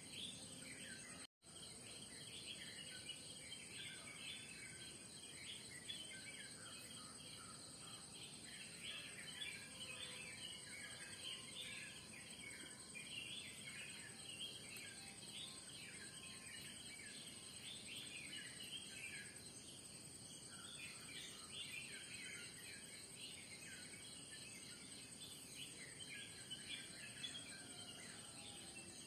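Faint morning bird chorus: many small birds chirping in quick, overlapping calls, over a steady high-pitched drone of insects.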